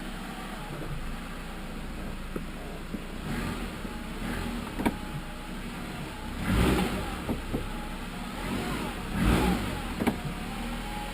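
Steady road and engine noise inside the cabin of a 2012 Jeep Compass on the move, with a few short knocks and several heavier thumps as it goes over bumps. The owner is listening for a clunk from the front corner over bumps, which he traces to worn control arm bushings on the driver's side.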